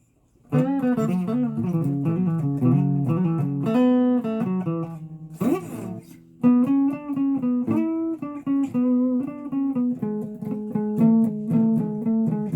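Guitar played by hand, picking a melody of single notes and chords that starts about half a second in, with a brief break and a scrape near the middle before the playing resumes.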